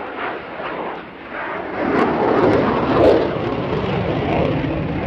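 F-16 fighter jet's engine noise, a loud rushing roar that swells sharply about two seconds in as the jet passes, then holds loud.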